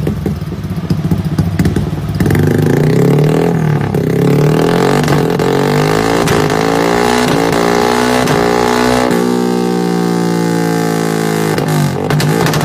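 Motorcycle engine through an aftermarket racing exhaust, running unevenly at first, then revved up and down several times, then held at a steadier, higher speed near the end.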